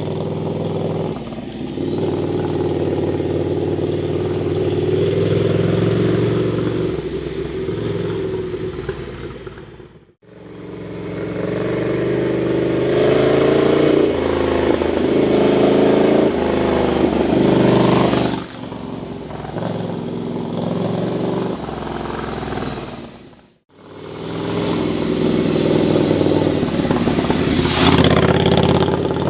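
Ducati Scrambler's air-cooled L-twin engine running under way, its note rising and falling with the throttle. The sound cuts out abruptly twice, between separate clips.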